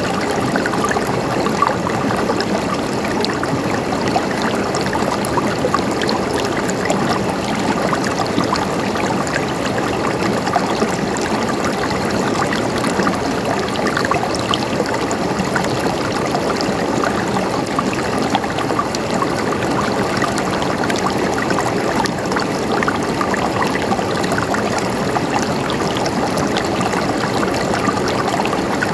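Water flowing steadily over a streambed, a continuous gurgling and trickling with many small splashes and no change in pace.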